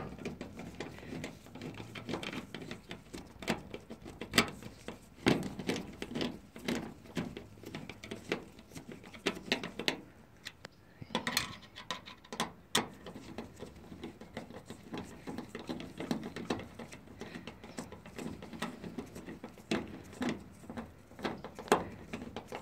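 A hand screwdriver tightening the mounting screws of a washing machine's new water inlet valve: irregular clicks, knocks and scraping of metal and plastic.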